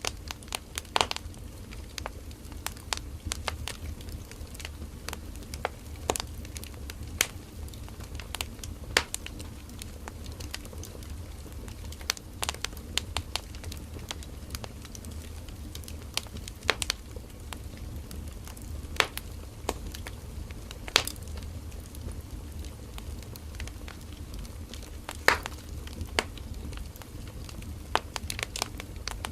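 Firewood burning in a campfire: irregular sharp crackles and pops over a steady low rumble of the flames.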